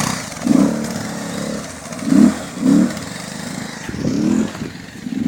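Motorcycle engine revved in short bursts, about four times, with a rougher running sound between them.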